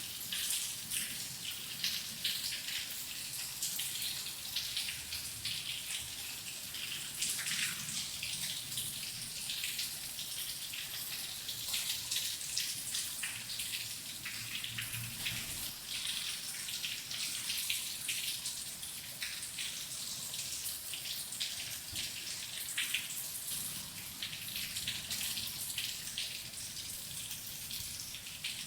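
Steady heavy rain, a dense patter of many drops with a faint low rumble beneath.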